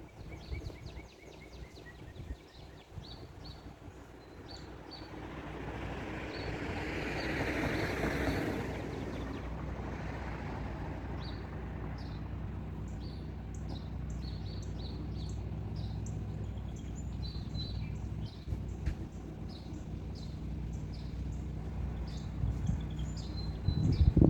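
Small birds chirping over and over above a steady low hum. A rushing noise swells up and fades away about a third of the way in, and a few louder knocks come right at the end.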